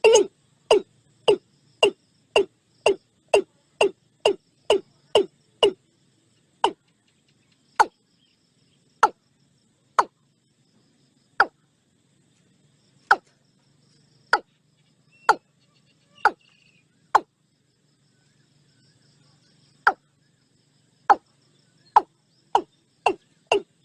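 Watercock calling a long series of short, repeated notes, about two a second at first. The calls slow to roughly one a second after about six seconds, stop for a few seconds, then resume and quicken again near the end.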